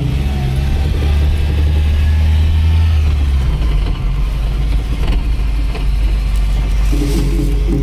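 Nissan 240SX engine running, heard from inside the cabin as the car drives. Its note drops lower about three and a half seconds in.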